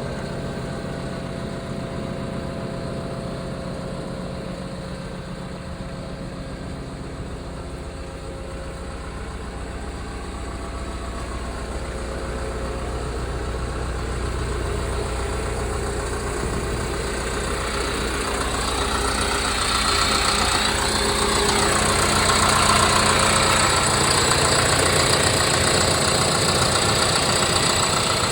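Liebherr R926 Compact tracked excavator's diesel engine running steadily. It grows louder and harsher from about two-thirds of the way through.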